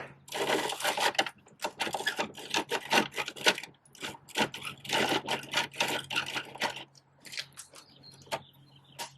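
Hard plastic parts of a Bruder toy garbage truck clicking and rattling in quick runs as it is handled, in three bursts with short pauses between, then a few scattered clicks near the end.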